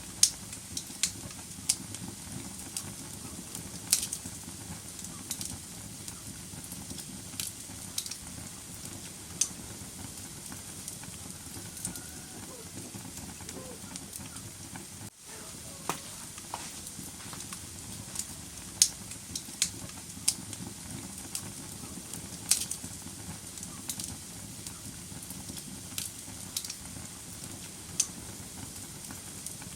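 Wood fire burning in a fireplace: a steady low hiss with irregular sharp crackles and pops, several of them loud. There is a brief dropout about halfway through.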